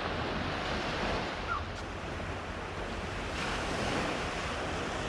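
Steady rushing of wind and waves, with a low rumble of wind on the microphone.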